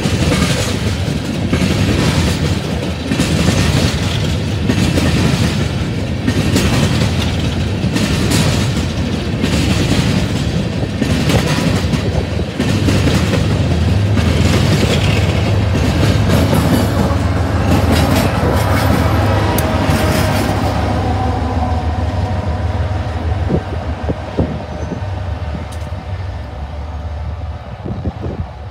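Empty coal train's hopper cars clattering past over the rail joints, a rhythmic clack about once a second. About halfway through, the two diesel locomotives at the train's rear pass with a steady low engine rumble. The sound then fades as the train moves away.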